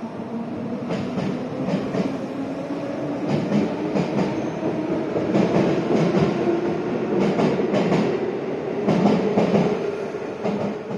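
A train running on the elevated tracks overhead, heard from beneath the viaduct: a loud, steady rumble with paired clacks of the wheels crossing rail joints about every two seconds.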